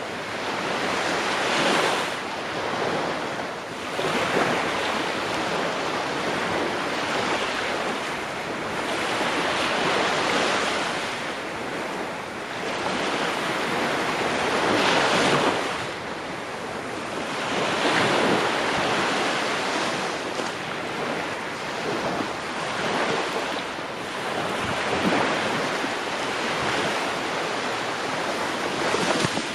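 Ocean surf: waves breaking and washing in without pause, with louder surges every few seconds.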